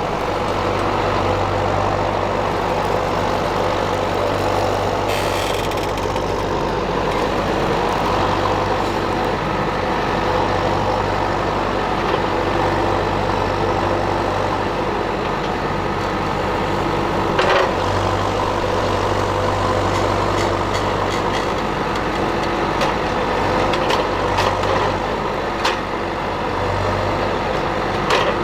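Tractor engine running steadily at a constant speed, with a few sharp clicks or rattles in the second half.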